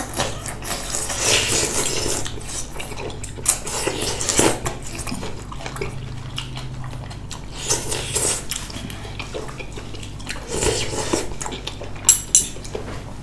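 Cutlery and dishes clicking and clinking in scattered, irregular taps during a meal, with wet eating sounds from the food.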